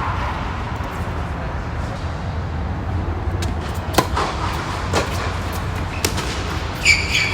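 Tennis balls struck by rackets during a doubles rally: sharp pops about a second apart over a steady low rumble, followed by a brief high squeak near the end.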